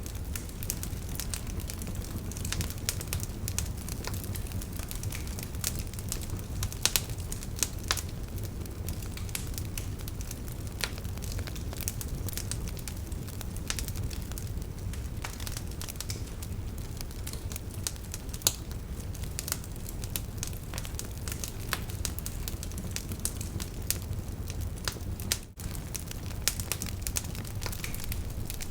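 Wood campfire crackling with frequent sharp pops and snaps, over a steady low rush of a river. The sound drops out for a moment about 25 seconds in.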